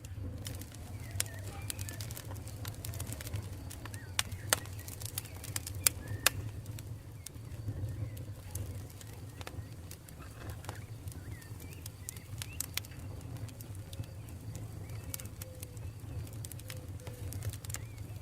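Wood campfire burning: a steady low rumble with frequent sharp crackles and pops, a few louder pops a little past four and six seconds in.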